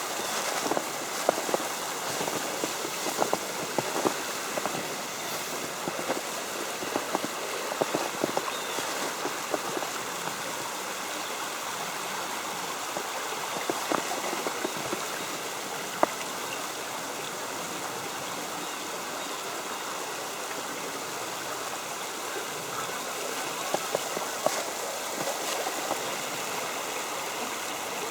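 A creek's water flowing steadily, with scattered light ticks of snow landing on an umbrella, thickest in the first third and again near the end.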